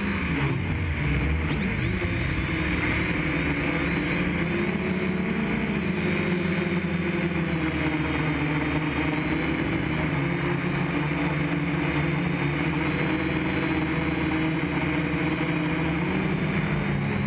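DJI F550 hexacopter's six electric motors and propellers buzzing steadily in flight, their pitch drifting up and down with throttle changes.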